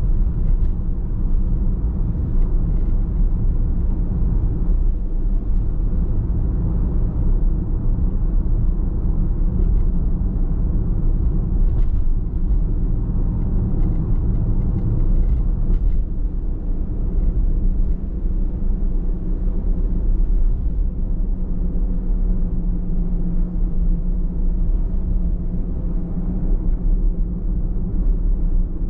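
Car driving at a steady speed: a constant low rumble of engine and tyre noise, with a couple of faint clicks.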